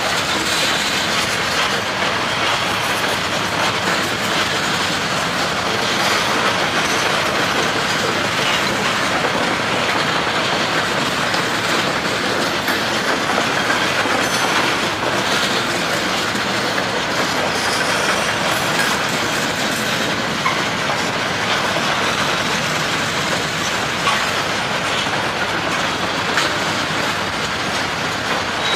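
Open hopper cars of a long freight train rolling past: a steady rumble and clatter of steel wheels on the rails, with a few sharper clicks.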